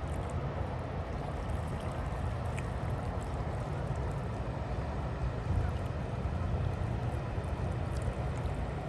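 Steady low rumble of a large passing cruise ship, mixed with wind buffeting the microphone.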